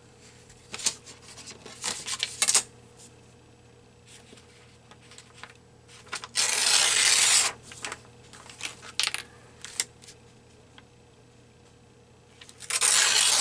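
Paper craft materials being handled: light rustles and taps, and two long scraping rubs, one about six seconds in and one near the end.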